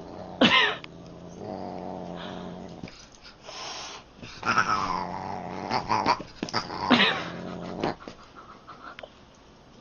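A cat growling and yowling: several long wavering cries, about half a second in, around four to five seconds and near seven seconds, with a low growl between them.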